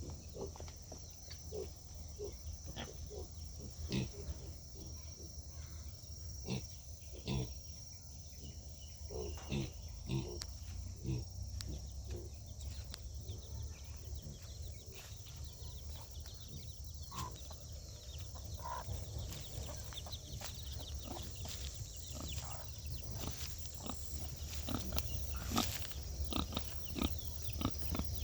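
Pigs grunting and snuffling in short, irregular bursts, over a steady low hum.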